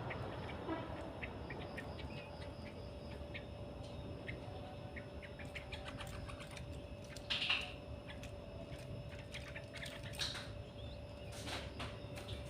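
Bulbuls in a cage chirping, with scattered short chirps and clicks and a few louder calls, a little past halfway and again near the end, over a steady faint hum.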